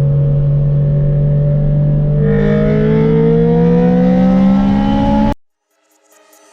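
Honda four-cylinder car engine pulling under load, its pitch climbing steadily as the car accelerates, then cutting off abruptly about five seconds in. Music starts to fade in near the end.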